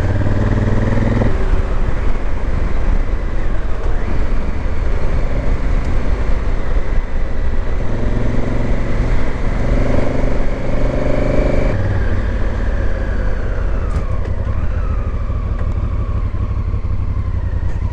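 Motorcycle engine running under way on a gravel backroad, with wind rushing past. The engine note shifts in pitch several times as the bike speeds up and eases off.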